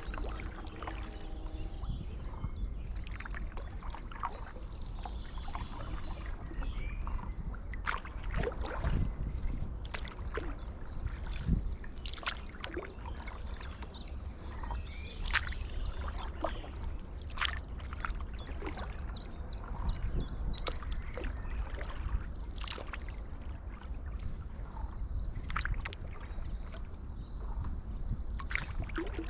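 Paddleboard paddle dipping and pulling through canal water, with irregular splashes and drips every second or two, over a steady low rumble.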